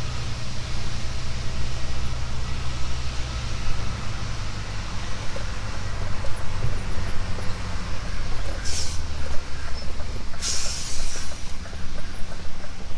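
Scania S500 truck engine running as the truck drives slowly, its note shifting a little now and then. Two short hisses of air come about 9 and 10.5 seconds in.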